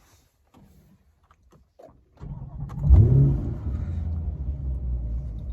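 2023 Corvette C8 Z51's 6.2-litre LT2 V8 starting about two seconds in, flaring briefly in revs and then settling into a steady idle; the engine is already warm. A few faint clicks come before the start.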